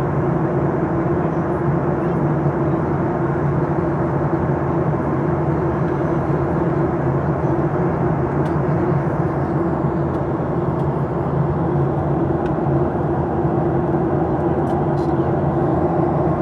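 Steady cabin noise of a Ryanair Boeing 737-800 with its CFM56 engines running: an even rush with a low, constant hum.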